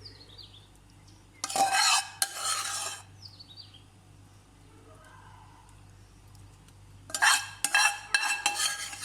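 A spoon scraping and clinking against a cooking dish in two short bouts, about a second and a half in and again for the last two seconds, over a low steady hum.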